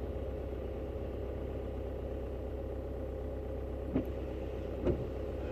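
Car engine running steadily at low revs, heard from inside the cabin, with two short knocks about a second apart near the end.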